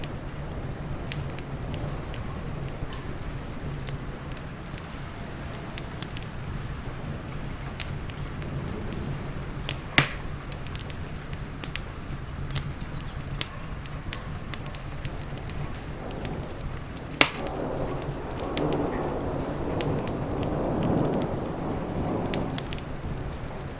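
Wood fire crackling with scattered sharp pops, two of them loud, over steady rain. In the second half a low rumble of thunder swells and fades.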